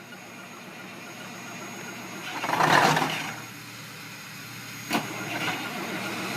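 Diesel engine starting from cold: steady running noise with one loud surge about two and a half seconds in, a sharp click near five seconds, then settling to a steady run.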